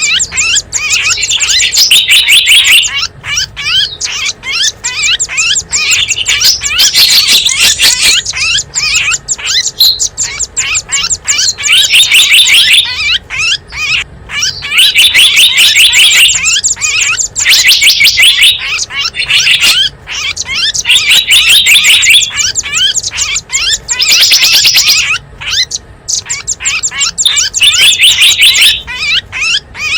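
Small wild birds chirping and twittering loudly in quick, high notes, in repeated bursts of a second or two with short breaks between them: a bird-lure call recording made to draw in small wild birds.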